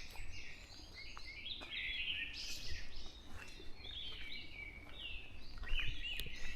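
Dawn chorus of several songbirds singing at once: a steady stream of short whistled phrases that glide up and down and overlap, with no pause, over a faint low rumble.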